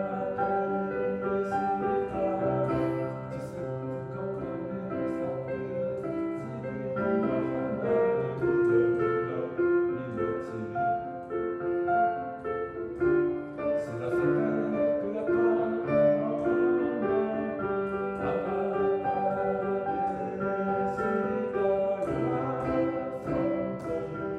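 Piano music: a street piano played in a slow tune of held notes and chords.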